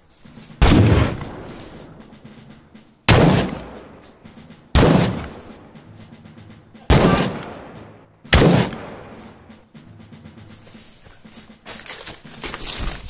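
Five single gunshots, one to two seconds apart, each a sharp report that dies away over about a second. Near the end come quick footsteps and grass rustling as someone runs close.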